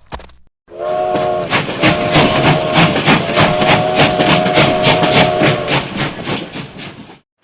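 Rhythmic chugging at about three to four puffs a second, overlaid by a sustained whistle of several notes at once, blowing briefly and then again at length. It starts about a second in and cuts off abruptly near the end.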